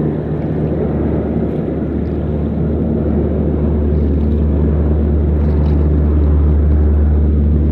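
Water bomber's propeller engines running with a steady low drone over a continuous rushing noise.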